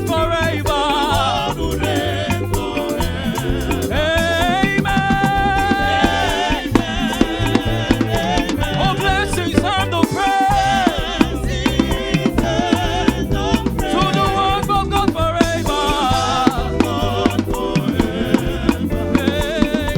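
Live gospel praise music: a band with bass, drums and shaker-type percussion playing a steady, danceable beat while voices sing over it.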